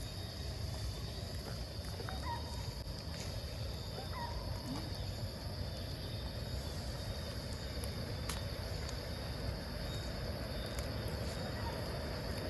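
Steady outdoor background noise with a low rumble and a constant high hiss, broken by a few short faint chirps about two seconds and again about four seconds in.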